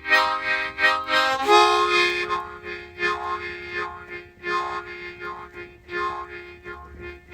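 Harmonica playing chords in a pulsing rhythm, with a change to a new chord about a second and a half in.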